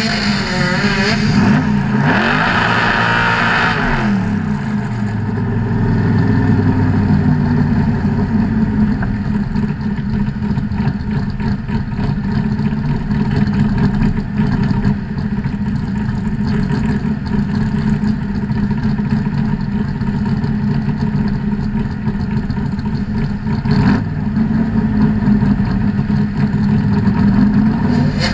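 Hurricane Motorsports Cobra kit car's 363 cu in Dart-block V8 idling steadily, with an engine revving up and back down about two to four seconds in.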